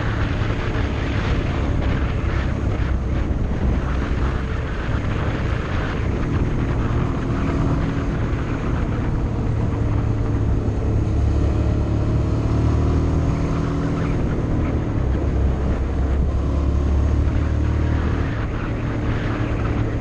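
Motorcycle engine running steadily while riding, its note shifting slightly, over a rush of wind noise that is stronger in the first half.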